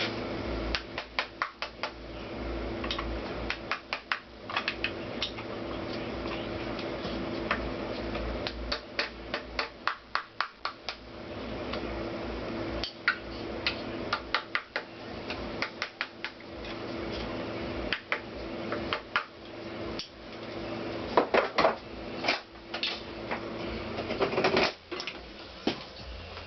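Irregular metallic taps, clicks and knocks of hand tools prying and knocking at a stuck part on a Honda CX500 engine, in quick clusters with short pauses. A steady hum runs underneath.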